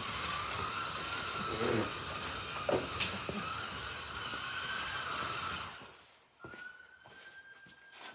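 Slot cars' small electric motors whining and their pickups and tyres hissing along the track, with a few clicks, then cutting out suddenly about six seconds in; a faint single tone lingers after the cars go quiet.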